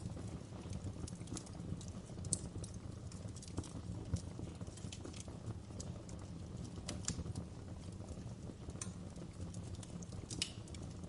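Wood fire in a fireplace crackling: irregular small snaps and pops, a few sharper ones, over a steady low rumble of the flames.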